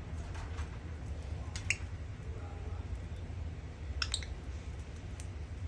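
A few short, sharp clicks from lovebirds busy with sunflower seeds, over a low steady hum.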